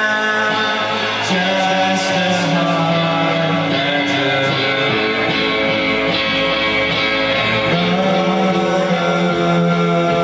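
A rock band playing live, with guitars and a held, drawn-out sung line; the low note changes about a second in and again near the end.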